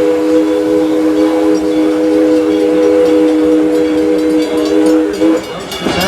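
Steam locomotive's chime whistle blowing one long steady chord, cutting off about five seconds in.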